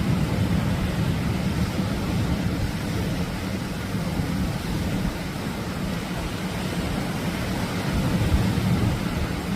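Atlantic surf breaking on a beach: a steady, unbroken rush of waves with a deep rumble underneath.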